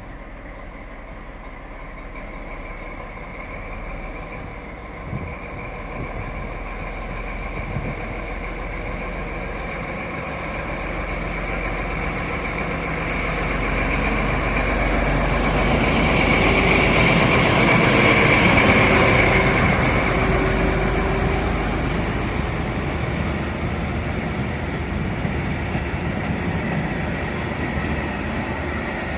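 A freight train running through a station, growing louder to a peak about two-thirds of the way through and then slowly fading, with a steady high-pitched ringing tone over the rumble.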